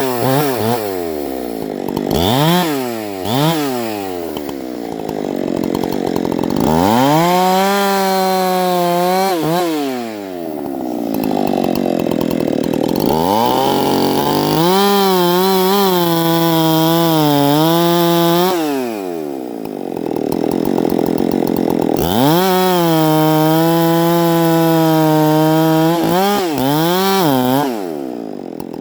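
Fallers' chainsaw cutting a fir. It gives a few quick revs, then runs three long full-throttle cuts of a few seconds each, with the engine dropping back toward idle between them.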